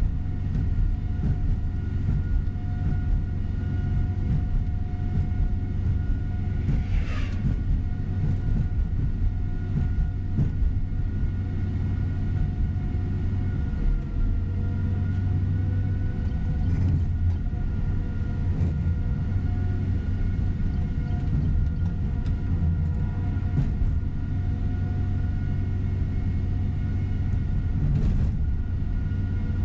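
Tour coach running along the road, heard from inside the cabin: steady engine hum and road rumble, with a brief falling squeal about seven seconds in.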